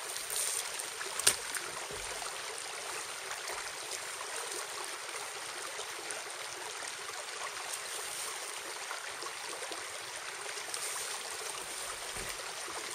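Steady rush of a flowing stream, with a single brief click about a second in.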